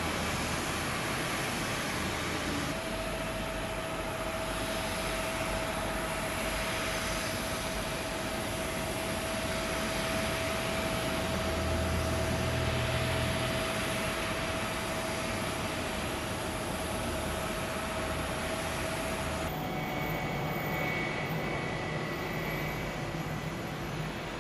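Jet airliner engines running, a steady rush of noise with a steady whine through most of it. The sound changes abruptly about three seconds in and again near the end.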